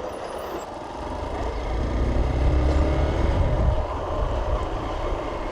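Motorcycle engine pulling away and accelerating, its low rumble building from about a second in.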